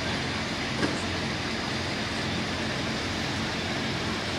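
Super Farm pulling tractor's diesel engine running steadily under power, with a brief sharp click a little under a second in.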